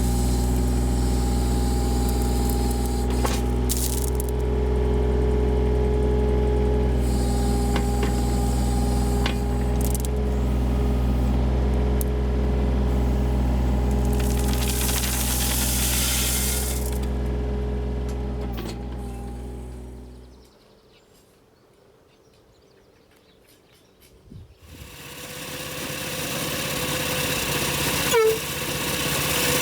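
A small petrol engine running steadily at a constant speed. About two-thirds of the way through it gives way suddenly to a few seconds of quiet, then an engine sound with a clear steady tone rises back in toward the end.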